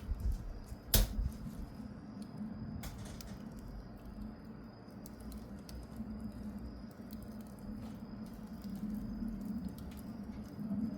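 Wood fire crackling, with scattered sharp pops and snaps, the loudest about a second in and another a couple of seconds later.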